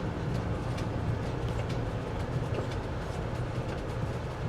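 Motorhome driving slowly, heard from inside the cab: a steady low engine and road rumble with scattered faint clicks and rattles.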